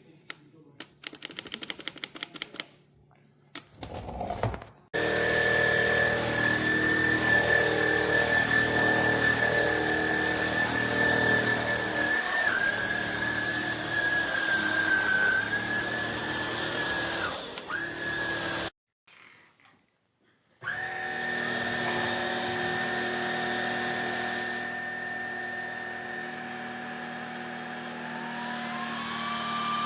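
Cordless stick vacuum cleaner's motor running with a steady high whine, starting about five seconds in after a few light clicks. It cuts out for about two seconds after the middle, then runs again, its pitch stepping up near the end.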